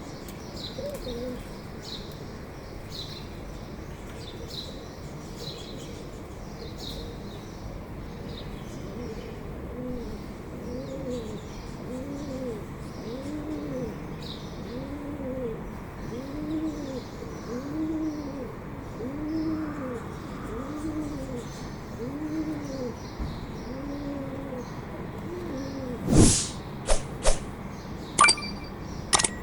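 Bird calls: one bird gives a long series of evenly spaced, rise-and-fall hooting notes about once a second, over faint high chirping. A few sharp clicks come near the end.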